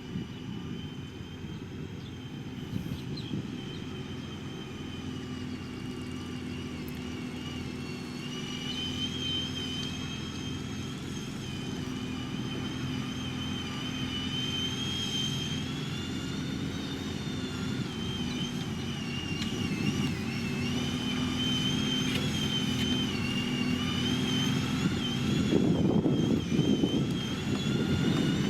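Heavy diesel road-building machinery, a motor grader and a road roller, running steadily: a low engine drone with a wavering high whine above it. It grows gradually louder, with a rougher, louder surge near the end.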